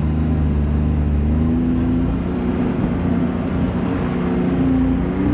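Off-road vehicle engine running, its pitch rising and falling as the throttle changes.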